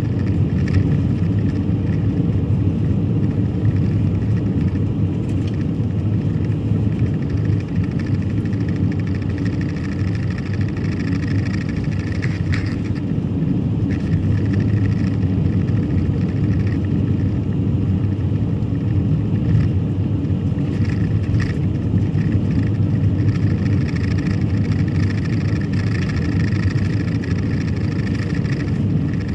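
A car driving at a steady speed: continuous low road and engine noise.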